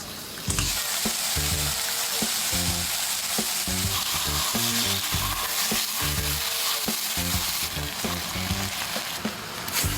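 Sliced pork stir-frying in soy sauce in a hot pan, sizzling steadily from about half a second in as it is stirred.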